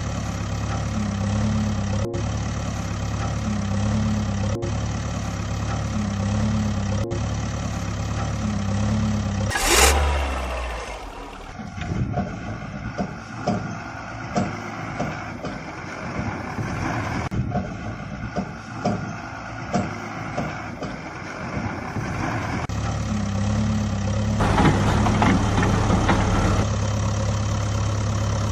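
Engine sound idling steadily in a loop that repeats every couple of seconds, with a sharp rising sweep about ten seconds in. A stretch of irregular knocks and clicks follows before the steady engine hum returns near the end.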